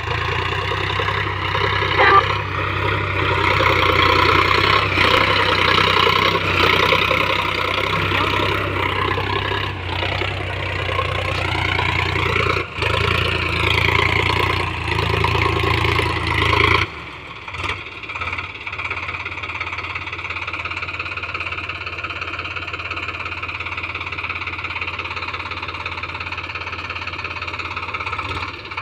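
Sonalika DI 35 RX tractor's diesel engine running steadily. About two-thirds of the way through, the sound becomes quieter and duller.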